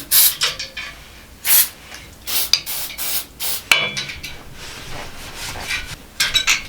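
Short hissing bursts from a nearly empty aerosol can of Jig-A-Loo lubricant being sprayed, with a few quick clicks near the end.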